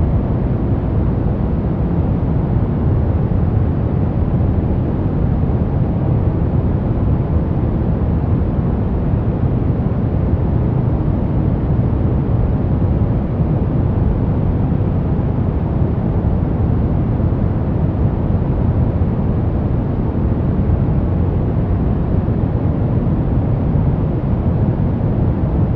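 Continuous relaxation noise track sold as white noise: a deep, even rush that never changes, heavy in the low end and dull in the highs.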